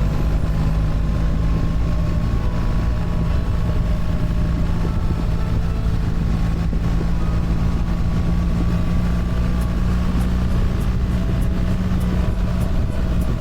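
BMW R1300 GS boxer-twin engine running at a steady cruise, its note holding an even pitch, under a haze of wind and road noise.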